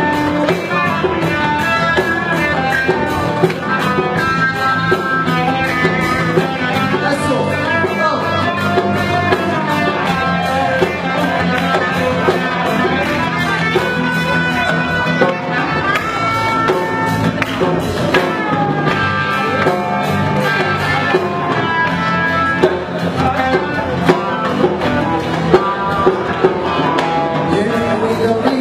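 Live band music: an instrumental passage led by guitar over a steady beat, with no singing.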